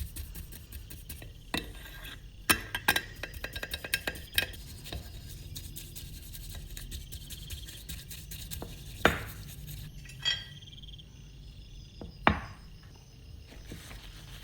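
Metal tools and parts being handled on a workbench. A quick run of light clinks and taps comes a second or two in, followed later by three separate sharper knocks.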